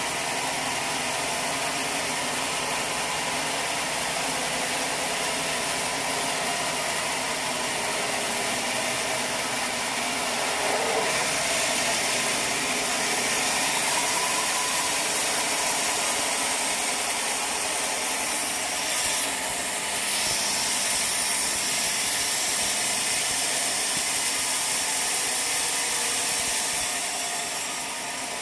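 Sawmill machinery running steadily, with a saw cutting through a log. The sound grows harsher and louder about a third of the way in, dips briefly, then eases off near the end.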